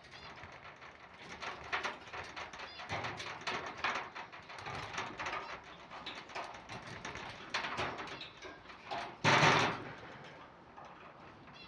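Irregular rattling and clicking from a newly built wire birdcage being handled, with one louder clatter about nine seconds in. Faint bird chirps come through now and then.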